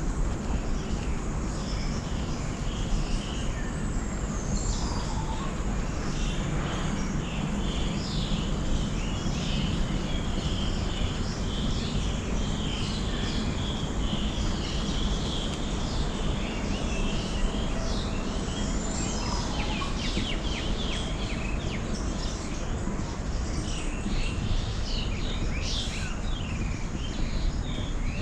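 Many birds chirping and calling at once, quick overlapping calls, over a steady low background noise.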